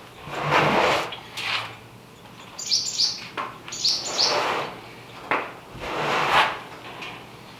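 A bird chirps in two short quick bursts in the middle. Around them come several loud scraping, sliding swishes, each about half a second long.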